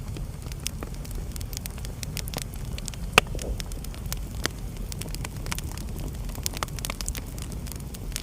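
Wood fire burning in a fireplace: a steady low rumble of flame with irregular sharp crackles and pops, the loudest pop about three seconds in.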